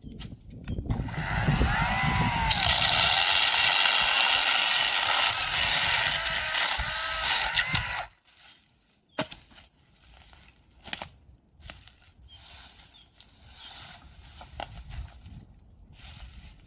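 Hand saw cutting through a branch for firewood, a continuous rasping lasting about seven seconds that stops abruptly, followed by scattered knocks and clicks of wood being handled.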